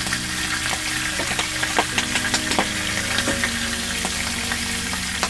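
Pieces of eel sizzling in a frying pan, a steady crackle with many sharp pops and spits throughout, over a faint steady low hum.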